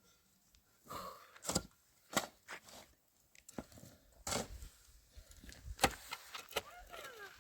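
Irregular sharp clicks and knocks of objects being handled, the loudest about four and six seconds in.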